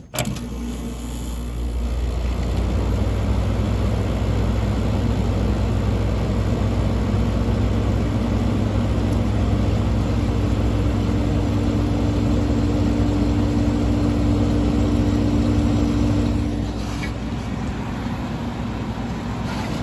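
Fedders Weather Wheel window air conditioner starting up: the unit kicks on suddenly, and its Rotorex rotary compressor and fan run with a steady low hum and a rush of air. The compressor has only just started and is still building pressure. About 16 seconds in, the hum drops a little.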